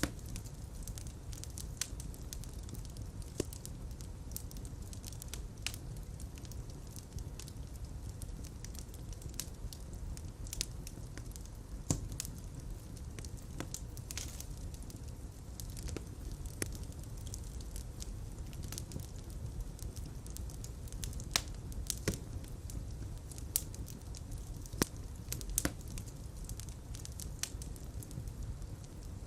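Fireplace fire burning with a steady low rumble of flames and scattered sharp crackles and pops.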